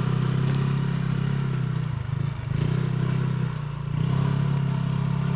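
Small motorbike engine running steadily while riding a rough, stony track, with some rattling. The engine eases off briefly about two seconds in, then picks up again.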